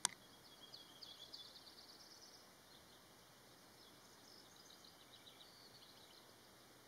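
Faint outdoor ambience with rapid, high chirping of birds, busiest in the first couple of seconds and again later. A sharp click comes at the very start.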